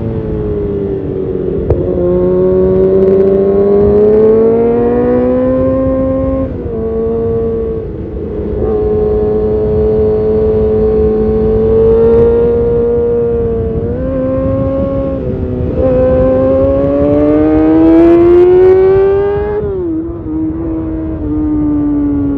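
2012 Kawasaki Ninja ZX6R inline-four running through an Arrow Competition titanium race exhaust, revs climbing and dropping back at gear changes, holding steady for a few seconds in the middle, then climbing again before a drop near the end.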